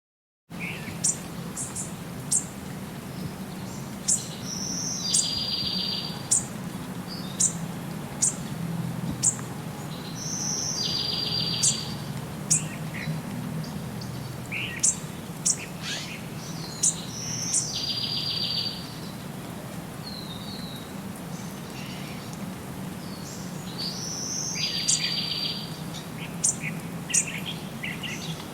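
Songbirds calling: sharp high chirps about once a second, and a short buzzy trill repeated every six or seven seconds, over a steady low background hum.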